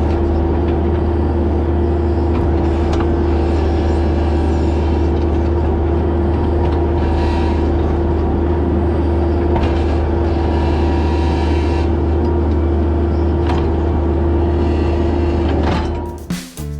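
An engine running steadily at constant speed, a loud low drone with a steady hum above it. It gives way abruptly to music near the end.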